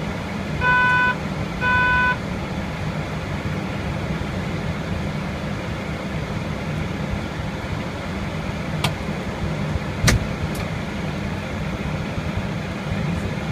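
Steady low hum with two short pitched beeps in the first two seconds, then a few sharp, distant firework bangs about nine and ten seconds in.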